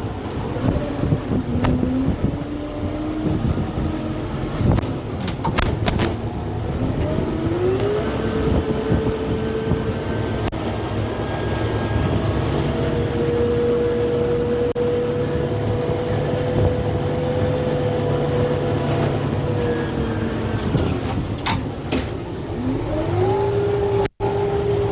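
Kubota M6-141 tractor's diesel engine working under load. It revs up about a third of the way in, holds high for several seconds, drops back, then revs up again near the end. Sharp cracks and knocks are scattered through.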